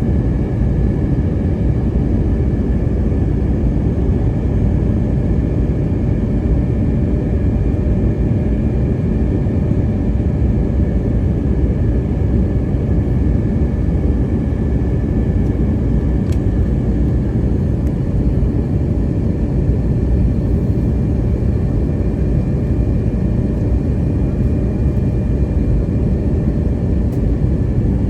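Steady cabin noise of an Airbus A321neo in flight: engine and airflow rumble with a few steady whining tones above it.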